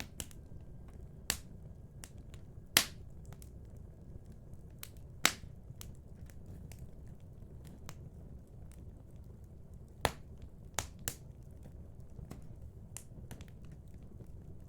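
Wood fire in a fireplace crackling, with scattered sharp pops at irregular intervals, the loudest about three, five and ten seconds in, over a low steady rumble.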